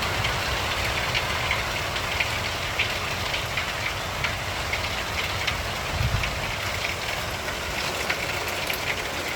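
Rain pattering, the drops making irregular light ticks over a steady low rumble, with a brief low thump about six seconds in.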